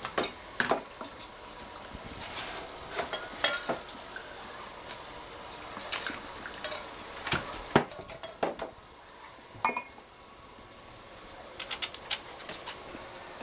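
Spoon clinking and knocking against a dish in a string of sharp, irregular clinks as hand-feeding formula is stirred and warmed.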